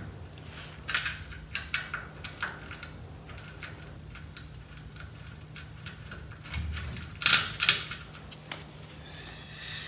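Scattered light clicks and taps of bolts and small metal hardware being handled during fitting, with a louder double clatter about seven seconds in. A faint steady low hum runs underneath.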